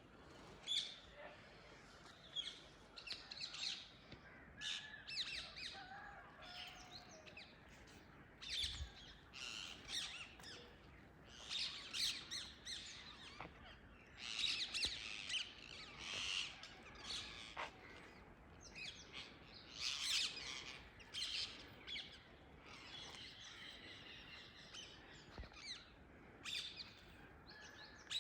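Indian ringneck parrots (rose-ringed parakeets) calling from a tree: many short, shrill calls repeated in clusters, several birds overlapping.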